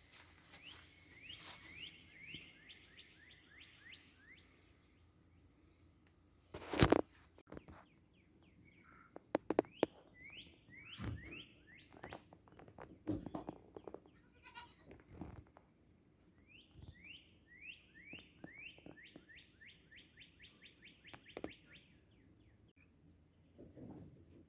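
A songbird singing runs of quick, rising whistled notes, each run speeding up. A loud knock about seven seconds in and a few sharper clicks follow.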